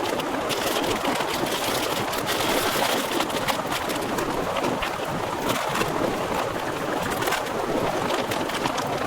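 Heavy rain pouring steadily, a dense patter of countless drops over a constant rushing hiss.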